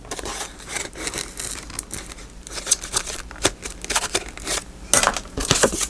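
Paper and card rustling and crinkling as they are handled and worked into a paper journal pocket, with a few sharp taps and clicks.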